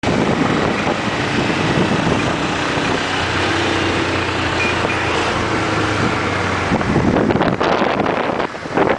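Motorcycle engine running on the move under heavy wind noise, with a steady low engine note; from about two-thirds of the way in the wind buffets the microphone in uneven gusts.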